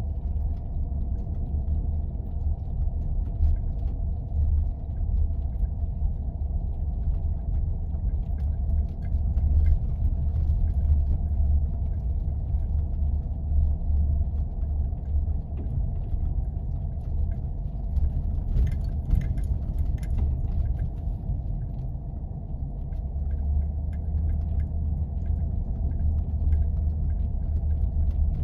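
Steady low rumble of a vehicle driving on snow-covered roads, with a short burst of crackling about two-thirds of the way through.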